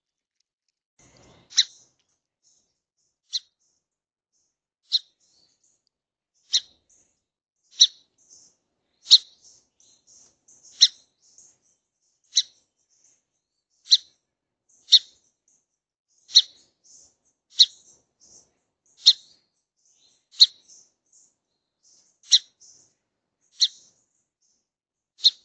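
Small songbird giving short, sharp, high chip calls, one about every second and a half, some seventeen in all.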